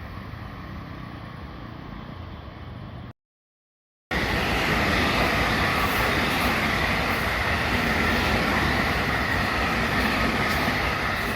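Steady wind and background noise, cut off by about a second of silence about three seconds in. Then an electric train runs alongside the platform on the JR Kobe Line, with a loud, steady rush of wheels on rails.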